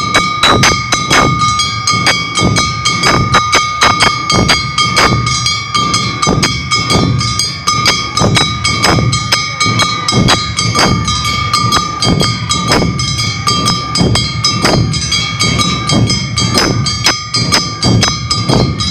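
Awa Odori festival band music: drums and other percussion beating a steady, brisk rhythm, with a held high note running over it.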